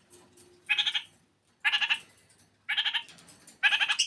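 Kakariki parakeet calling: four short, rapidly pulsed chattering calls, each under half a second, about a second apart.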